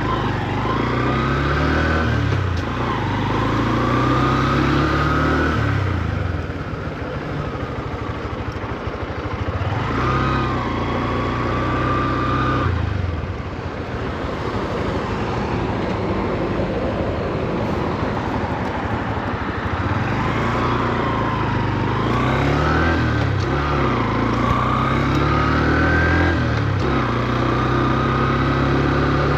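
Honda CB125F's single-cylinder four-stroke engine pulling through the gears. Its pitch climbs and drops back at each gear change, with quieter stretches off the throttle. The revs are kept low to run in the new engine.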